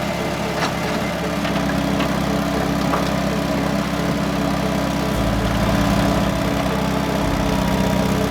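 A small motor running steadily, its low hum shifting about five seconds in and again about two seconds later.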